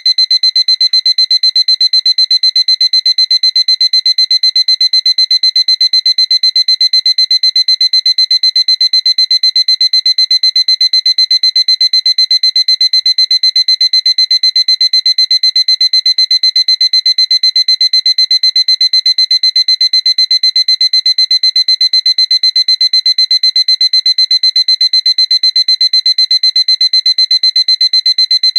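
Seiko alarm clock beeping: one high-pitched tone pulsed rapidly and evenly, without any change.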